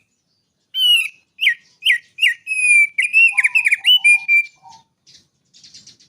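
Small songbird singing a quick phrase of loud, clear whistled notes, several slurring sharply downward. The phrase ends with a held note around four seconds in, followed by a few softer, lower notes and then a faint, fast rattling trill near the end.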